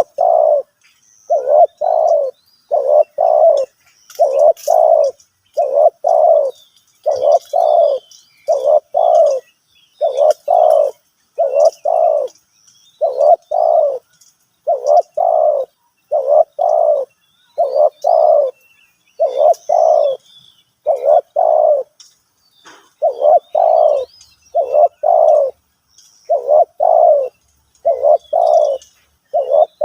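Spotted dove cooing over and over, each phrase a quick group of two or three low notes, about one phrase every second and a half. Faint chirps of small birds sound behind it.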